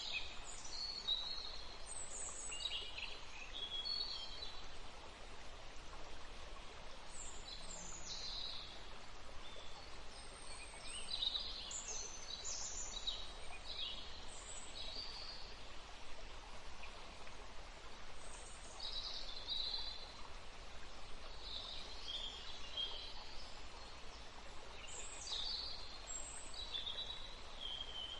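Several songbirds singing in short high chirps and trills that come in clusters, over a steady soft hiss like a stream or running water.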